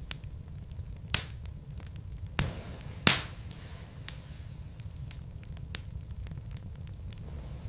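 Wood fire burning in a fireplace: a steady low rumble with sharp pops and crackles from the logs, the loudest pop about three seconds in.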